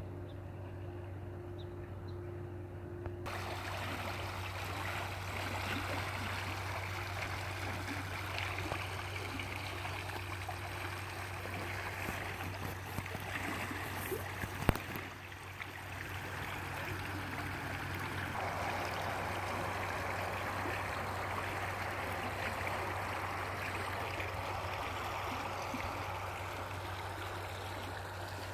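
Stream water flowing and trickling in a steady rush, fuller from about three seconds in, over a constant low hum. One sharp click about halfway through.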